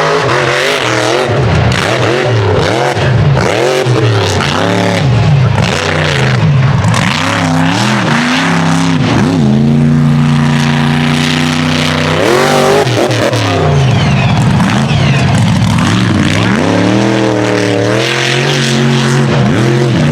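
Unlimited-class mega truck engine revving hard, its pitch swinging up and down again and again as the throttle is worked, held steady and high for a couple of seconds about ten seconds in before dropping and climbing again.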